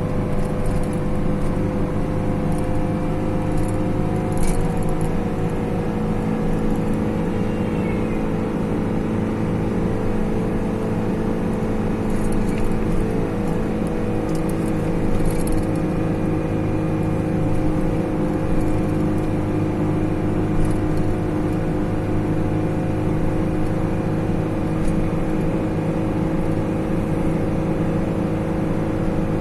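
Motor vehicle engine running steadily while driving, a constant hum with road noise and no change in speed.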